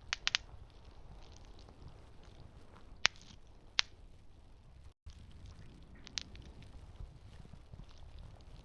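Campfire crackling over a low steady rumble, with sharp wood pops: three in quick succession at the start, then single pops about three seconds in, just before four seconds, and again past six seconds.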